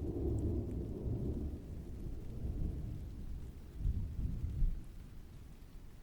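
Distant thunder rumbling, swelling briefly a few times and fading away toward the end, with rain faintly beneath.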